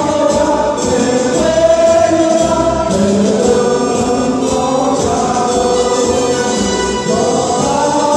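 Choir singing to music, sung notes gliding and held over a steady accompaniment.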